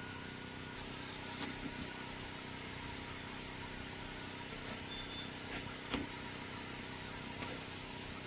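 Steady mechanical hum of a compressor running in the background, with several short sharp clicks over it, the loudest about six seconds in.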